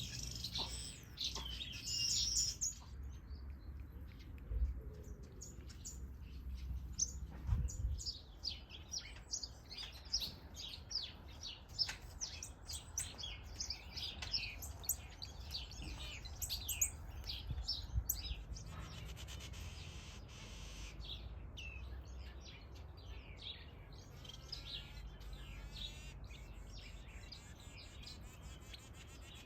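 A mixed flock of aviary finches chirping: many short, high chirps overlapping, busiest through the middle, with a few longer sweeping notes near the end.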